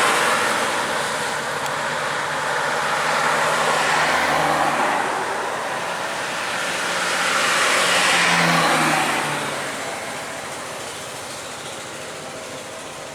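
Road vehicles passing close by one after another: three swells of engine and tyre noise about four seconds apart, the last fading away near the end.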